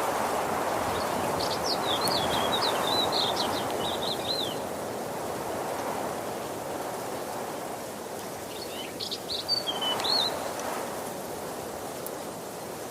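Waterfall rushing steadily, with a songbird singing two short warbled phrases over it, one about a second in and one past the middle.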